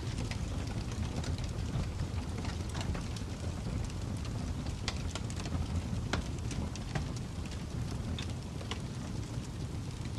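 Fire crackling: a steady low rumble of flames with irregular sharp pops and snaps scattered through it.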